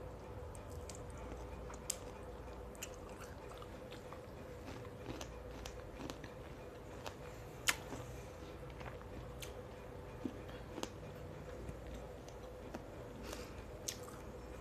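A person chewing pomegranate arils close to the microphone, with scattered sharp crunches and pops, the loudest about eight seconds in, over a faint steady hum.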